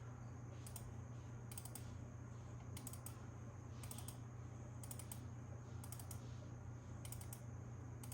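Computer keyboard keys clicking at an unhurried pace, about one press a second, over a steady low hum.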